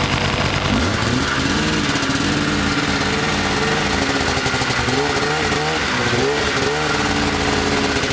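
Snowmobile engine revving up and down unevenly under load while being towed out of snow, with a steady engine running beneath it. The revving starts about a second in.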